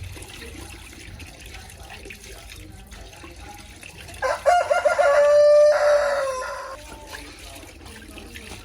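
A rooster crows once, about four seconds in: a few short broken notes, then a long held note that falls away at the end.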